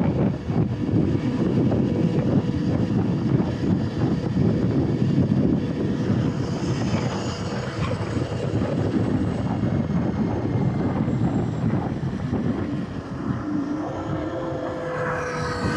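Wind rushing and buffeting over the microphone while riding an electric dirt bike, a steady low rumble with a faint thin whine running under it.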